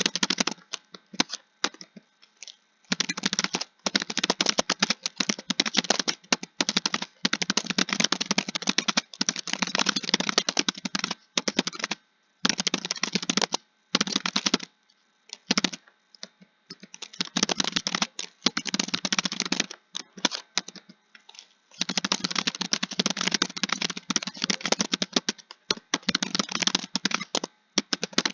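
Fast typing on a computer keyboard: rapid runs of key clicks broken by several brief pauses.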